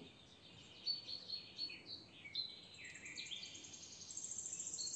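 Small birds chirping faintly: short notes sliding downward, with a fast high trill joining about four seconds in.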